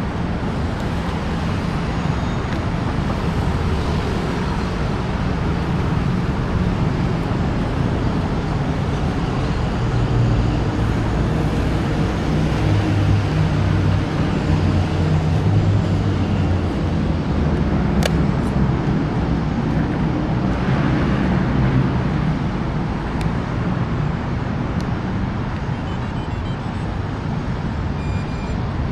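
Steady low rumble of motor traffic, with a single sharp click about 18 seconds in.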